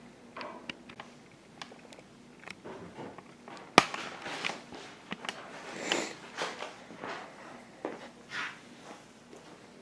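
Packaging being handled while unboxing a soundbar: scattered rustles and small knocks, with one sharp loud snap about four seconds in.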